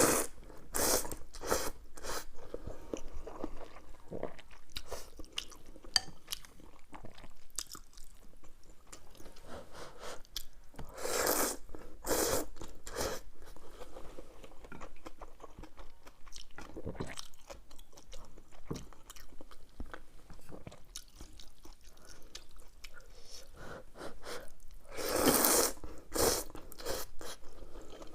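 Close-miked eating: a person chewing and crunching food, with a few louder crunchy bites about 11 and 25 seconds in.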